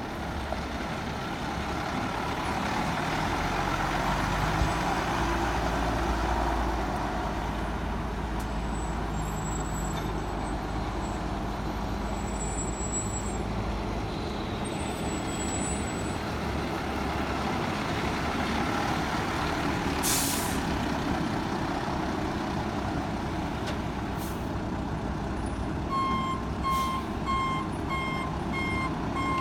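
International 4900 medium-duty truck's diesel engine running steadily, with a short burst of air hiss about 20 seconds in. Near the end its backup alarm starts beeping, about two beeps a second.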